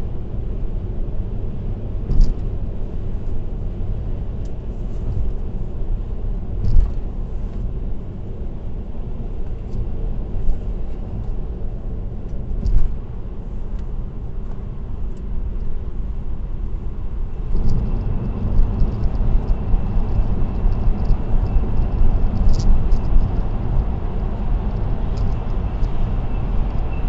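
Car driving at expressway speed, recorded by a dashcam: a steady low rumble of road and tyre noise with a few sharp clicks. About two-thirds of the way through, the rumble gets louder and coarser, with many small ticks.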